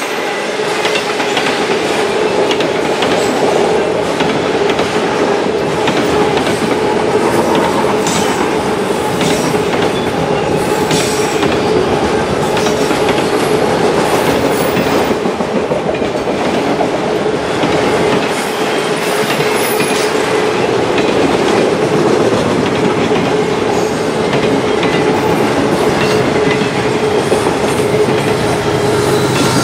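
Freight cars rolling past at speed: a continuous rumble and clatter of steel wheels over the rail, with irregular clacks from the joints and a steady ringing whine from the wheels.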